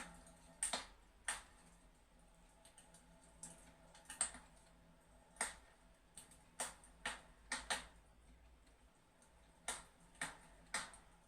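Fireplace crackling: about a dozen sharp pops at irregular intervals, with quiet gaps between them.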